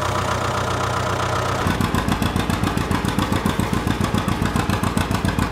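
Tractor engine running: a steady hum that turns, about a second and a half in, into a fast, even chugging beat.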